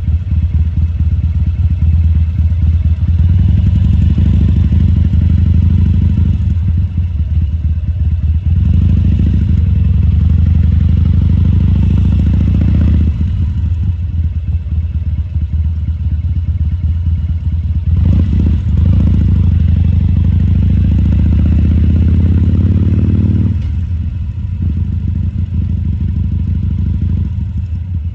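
2014 Harley-Davidson Sportster XL1200C's 1200 cc air-cooled V-twin running at low speed. The throttle opens and rises three times, about 3, 9 and 18 seconds in, easing off in between, then settles to a lower, quieter note from about 24 seconds in.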